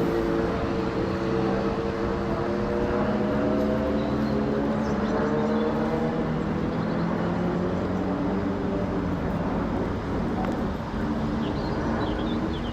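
Airbus A350's Rolls-Royce Trent XWB jet engines at climb power after takeoff: a steady jet roar with several humming tones that slowly waver in pitch, easing slightly near the end as the airliner moves away.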